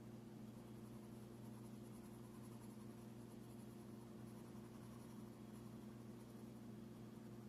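Faint scratching of a pencil drawing on paper, over a steady low electrical hum.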